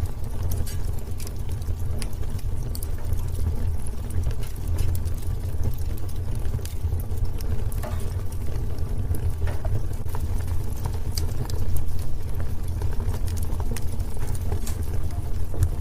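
Wood fire crackling: irregular sharp pops and snaps scattered over a steady low rumble of burning.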